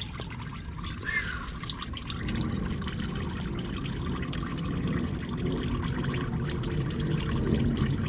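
Engine oil pouring in a steady stream from the truck's oil pan drain hole into a catch pan, a little louder after about two seconds.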